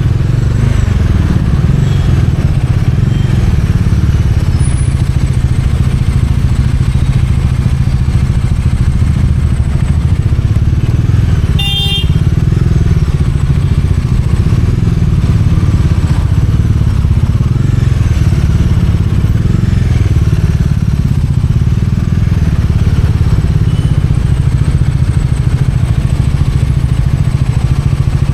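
Bajaj Dominar 400's single-cylinder engine running steadily while riding, its low exhaust note loud throughout. A short high-pitched tone sounds once, about twelve seconds in.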